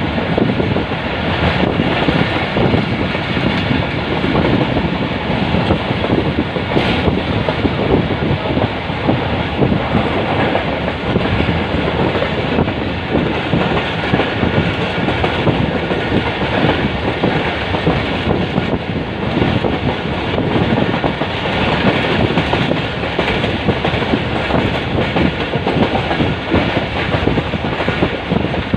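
Pakistan Railways passenger train running along the track, a steady, continuous rolling noise of the moving train.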